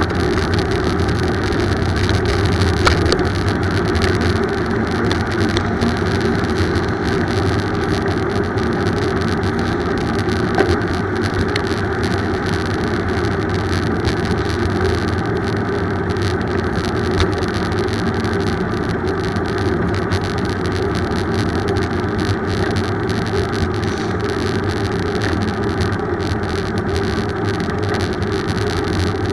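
Steady rumble of a bicycle ride: wind on the microphone and road noise from the moving bike, with scattered small clicks and rattles.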